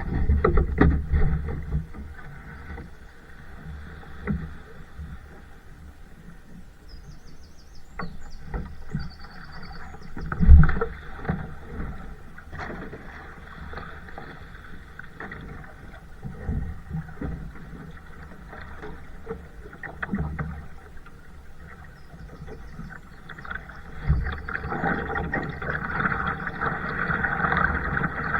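Kayak being paddled: irregular water splashing and sloshing from the paddle strokes, with scattered knocks on the hull. There is one strong thump about ten seconds in and another near the end, and the splashing grows louder over the last few seconds.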